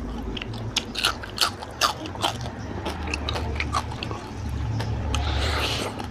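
Close-miked chewing and biting of food by hand-fed mouthfuls: wet mouth smacks and sharp crisp clicks, several a second, over a low hum, with a short breathy rush of noise near the end.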